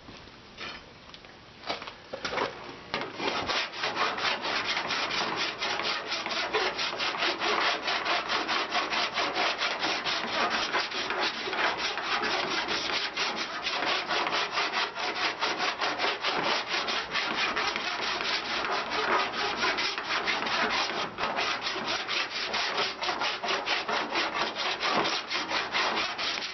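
Hand body file scraping across lead-free body solder on a welded patch-panel seam, in quick, regular back-and-forth strokes that settle into a steady rhythm about two to three seconds in, with a few scattered strokes before. The solder is being filed down flush before sanding.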